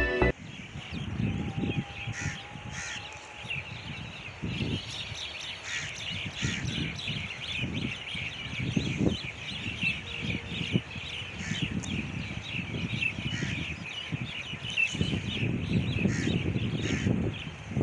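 A chorus of many birds calling continuously, dense overlapping chirps and crow-like caws, with low irregular rumbling underneath.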